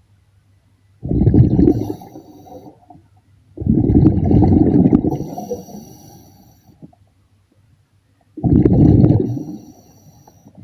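A diver breathing underwater: exhaled air bubbles out in three rumbling bursts, about a second, three and a half seconds and eight and a half seconds in, with quiet inhalations between them.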